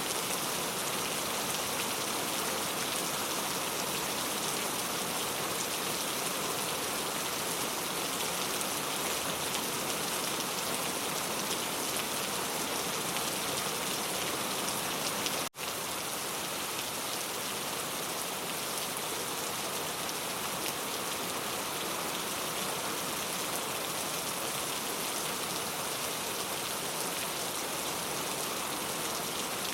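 Steady rain falling, an even, unbroken hiss of drops with no thunder. It cuts out for a split second about halfway through, then carries on as before.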